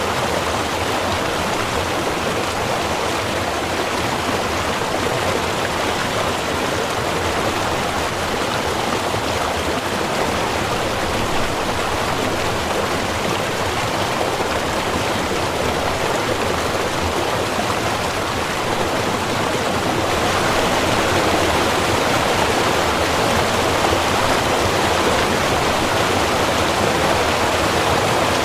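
Small river's water running over rocks, a steady rushing, slightly louder about two-thirds of the way through.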